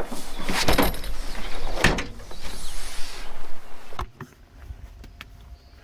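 Things being handled and set down: rustling with several sharp knocks and clatters. About four seconds in it suddenly drops to quiet, with a few faint taps after.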